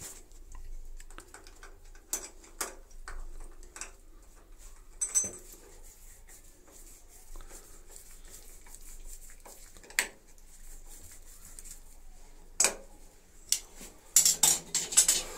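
Small metal hardware and tools being handled: scattered clicks and taps, then a quick run of metallic clattering near the end.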